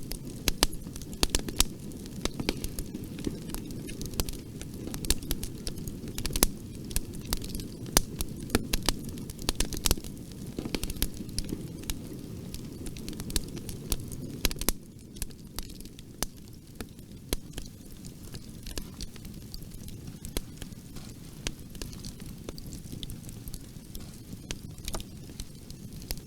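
Bonfire burning, with a steady low rumble of flames and frequent sharp crackles and pops of burning wood. A little past halfway the fire gets quieter, with fewer pops.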